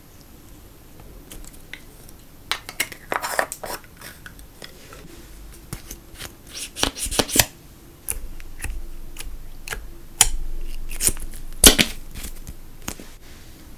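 Slime being worked by hand, making sticky clicks, crackles and pops in uneven bursts, with the loudest snap near the end.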